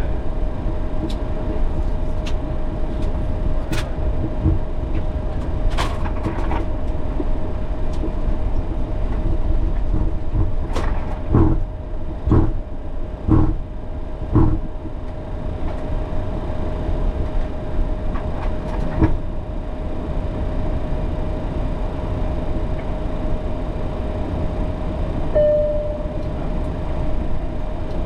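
Boeing 737 flight deck noise with the engines at idle before takeoff: a steady low rumble and hiss under a constant whine. Around the middle come four dull thumps about a second apart.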